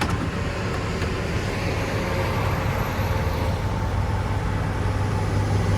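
Steady road and engine noise of a vehicle being driven, with a continuous low hum.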